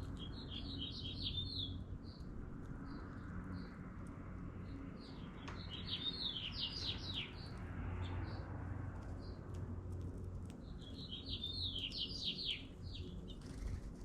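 A songbird singing the same short, quick phrase of high notes three times, about five seconds apart, with soft high calls between the phrases over a steady low background rumble.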